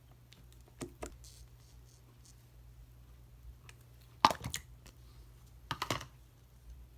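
Slime being pressed and squished by hand, giving short clusters of crackly clicks and pops: a small cluster about a second in and louder ones a little after four seconds and near six seconds. A faint steady low hum runs underneath.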